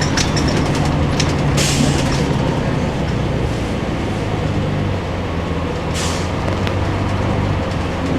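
Cummins ISC diesel engine of a Blue Bird CS transit bus running, heard from inside the bus, with its engine note dropping about five seconds in. Two short hisses of air from the bus's air system come about a second and a half in and about six seconds in.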